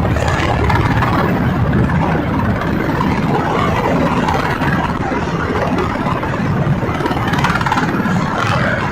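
Steady, loud noise of military helicopters, UH-60 Black Hawks and Little Birds, running close by.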